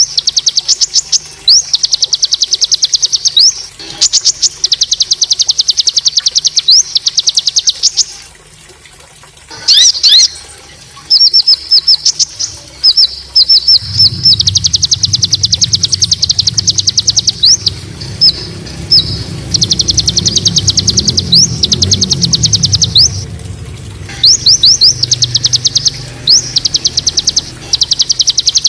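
A songbird singing harsh, rapid-fire trill phrases. Each is a fast burst of high notes lasting a second or two, repeated with short gaps. This is the rough 'tembakan' song used as masteran to train champion songbirds.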